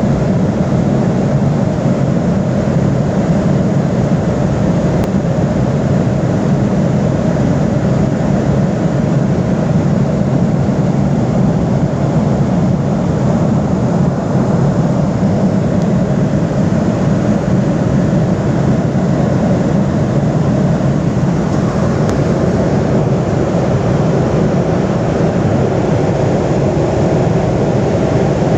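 Airliner cabin noise: the steady, loud drone of the engines and rushing air heard from inside the passenger cabin, unchanging throughout.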